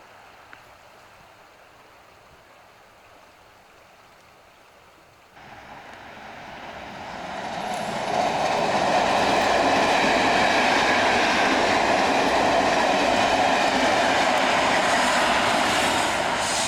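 A train approaching and passing on the line: faint for the first five seconds, then the sound builds from about five seconds in and stays loud and steady from about eight seconds on.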